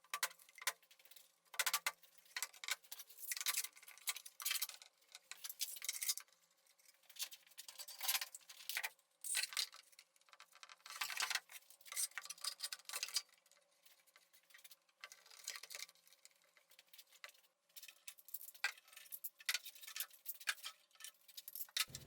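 Faint, irregular light clicks and taps, scattered through with short quiet gaps: clamps and plywood parts being handled and set during the glue-up of a plywood table-saw jig.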